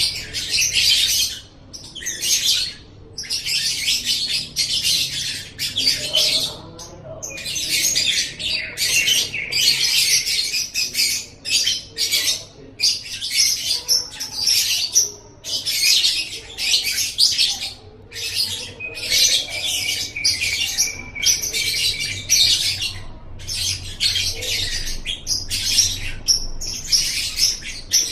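Lovebird singing: long runs of fast, high-pitched chattering trills lasting one to three seconds each, with short breaks between them.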